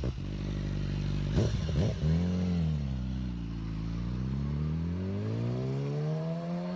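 Husqvarna Svartpilen 401's single-cylinder engine revving: two quick throttle blips in the first two seconds, then the revs drop and climb slowly and steadily toward the end.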